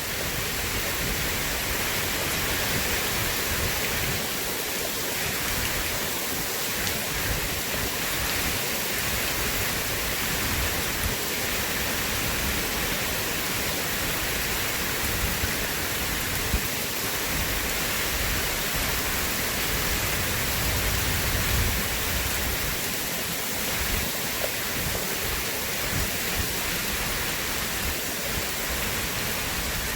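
Steady rain falling as an even hiss, with a low rumble swelling about twenty seconds in.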